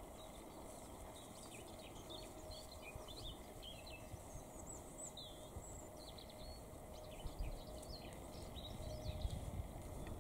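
Small birds chirping and singing, many short twittering calls, over a low uneven rumble that grows a little stronger near the end.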